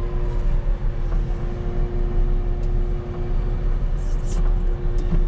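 Volvo rubber-tire wheel loader's diesel engine running steadily, heard from inside the cab: a deep drone with a steady whine held at one pitch.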